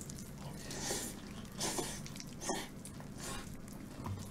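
Close-up chewing of crispy fried chicken: four soft crunchy chews spaced a little under a second apart, over a faint steady hum.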